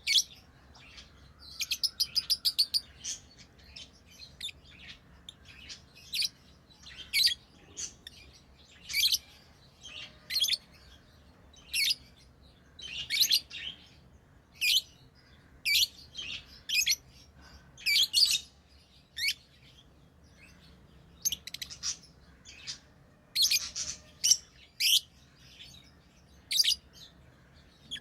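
Pet lovebirds calling: short, shrill chirps repeated irregularly, about one a second, with a quick rattling run of chirps a couple of seconds in.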